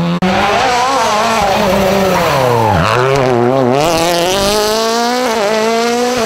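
Rally car engine at high revs. Its pitch wavers and falls to a low point about three seconds in, then climbs again as the car accelerates.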